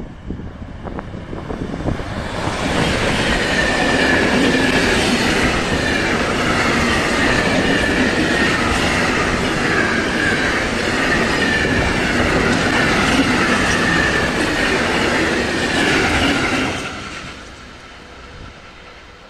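Freight train of silo tank wagons passing close by on the near track. The rolling noise swells about two seconds in, holds loud with a wavering high whine over it, and falls away sharply near the end as the last wagon clears.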